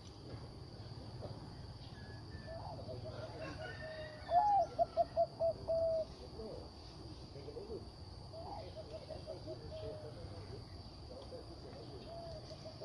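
Zebra dove cooing: a loud run of quick, short repeated notes about four seconds in, then a softer run of notes a few seconds later.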